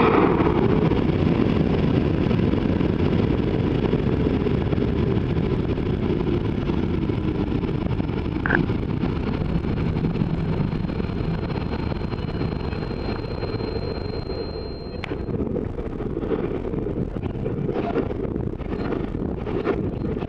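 Rocket launch and flight: a steady, loud rushing roar with heavy wind buffeting on the microphone. A faint high whistle comes in past the middle and cuts off with a click, and a few sharp knocks come near the end.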